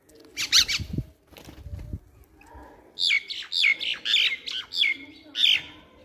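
Birds squawking: one harsh call about half a second in, then a quick run of about seven sharp, harsh calls from about three seconds in, each falling in pitch. Low thuds sound about a second in and again near two seconds.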